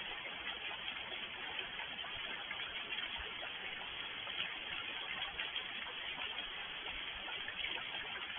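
Steady rain falling in a dense, even patter.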